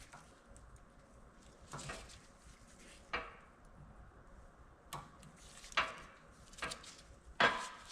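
Steel CV-joint parts being worked by hand: about six separate light metal clinks and knocks, spaced irregularly, with the loudest near the end.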